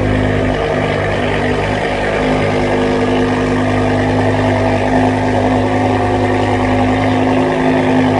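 BMW M6 E63's V10 engine idling steadily through a KKS aftermarket exhaust, still warming up after a cold start.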